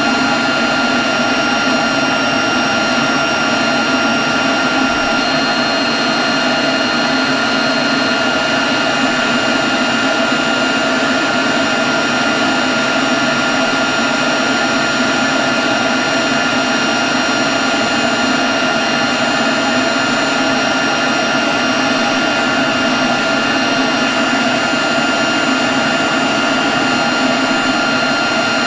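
Leaf blower running steadily at constant speed: a loud, even rush of air with a steady high whine over it.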